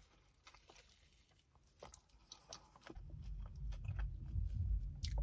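Close-up chewing of a bite of toasted sub sandwich, with soft wet mouth clicks and light crunching. About three seconds in, a steady low rumble comes in underneath and grows.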